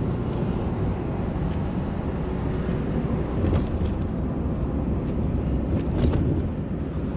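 Steady engine and road noise heard from inside a tow truck's cab while it drives, with a few faint clicks.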